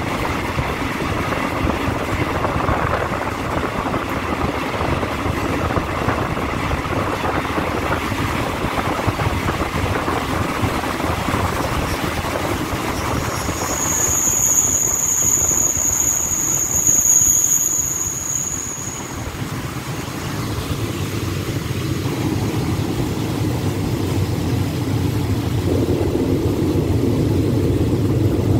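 Running noise of a moving passenger train heard from an open carriage window, a steady rumble and rush. About halfway a high-pitched steady squeal rises over it for about five seconds, then fades.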